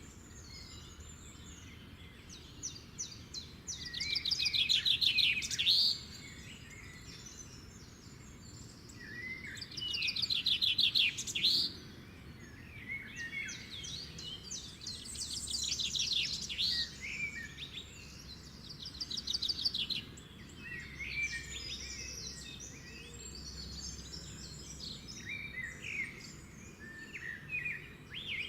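Birdsong: loud phrases of rapid trilled notes, each about two seconds long, recurring every five or six seconds, with softer chirps between them.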